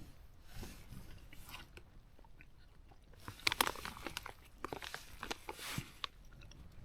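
Someone eating a rehydrated pasta meal from a foil food pouch close to the microphone: a run of small clicks, scrapes and crinkles from the spoon and pouch together with chewing, busiest and loudest in the second half.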